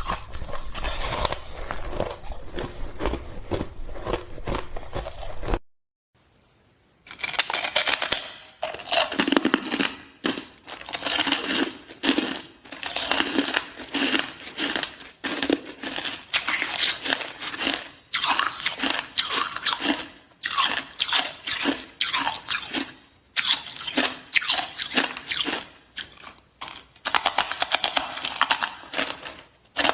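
Ice being chewed and crunched close up, in quick bites that come about once a second, with a brief near-silent break about six seconds in.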